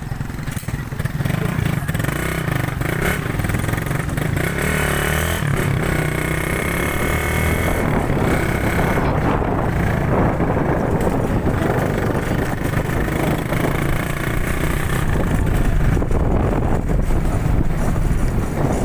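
Motorcycle engine running steadily while being ridden, a low drone under a continuous rushing haze of wind and road noise.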